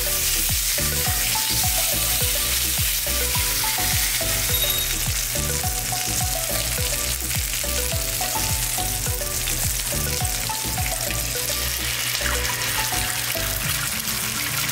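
Thick-cut bacon, sausage and vegetables sizzling and spitting in a hot cast-iron skillet, a steady frying hiss. Background music with a steady beat plays under it.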